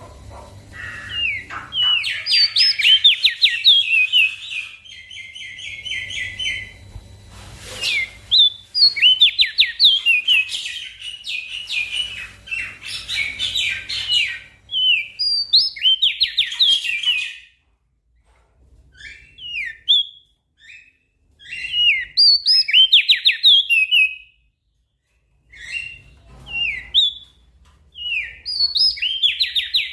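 A small songbird singing phrases of rapid, sharply gliding high chirps, a few seconds at a time with short breaks between them.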